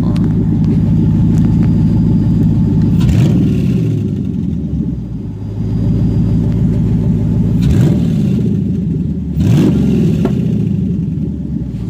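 2009 Dodge Challenger SRT8's 6.1-litre Hemi V8 through a Corsa exhaust, partly warmed up, idling steadily and revved three times. Each rev rises quickly and drops back to idle: about three seconds in, then twice close together near the end.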